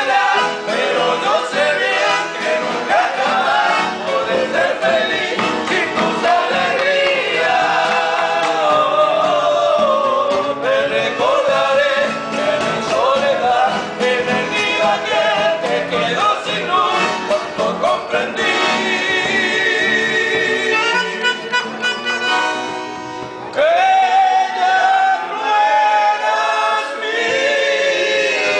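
Several men's voices singing together, a choir-like song with changing melody lines.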